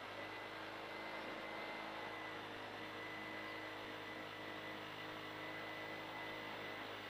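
Peugeot 208 R2 rally car's four-cylinder engine idling steadily while stationary, heard from inside the stripped cabin, with a faint steady high whine over it.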